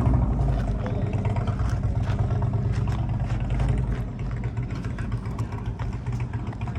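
A car engine running at idle, a steady low rumble that eases off slightly partway through.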